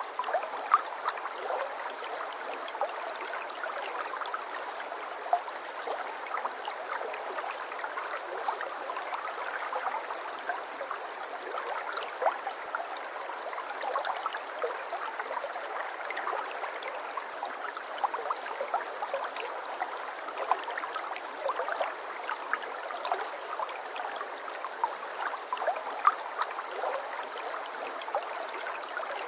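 Shallow brook babbling over stones: a steady rush of water with many small splashes and gurgles throughout.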